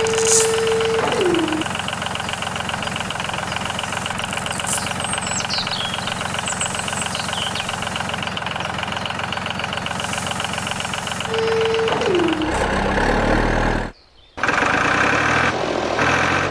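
An engine-like machine runs steadily with a fast, regular beat. A held tone slides down about a second in and again near 12 seconds. The running sound changes near the end, cuts out for a moment, and then comes back pulsing.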